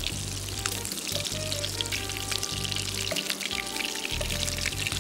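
Beef kofta balls frying in shallow oil in a pan, a steady sizzle full of small crackles and pops, with background music and a low bass line underneath.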